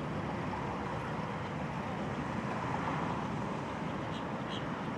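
Steady outdoor rush of wind mixed with a low engine drone from personal watercraft, with a few faint clicks near the end.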